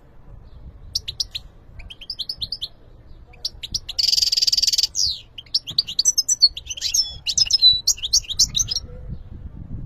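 European goldfinch singing: scattered high chirps, then a harsh buzzy note about a second long around four seconds in, followed by fast, tumbling twittering phrases.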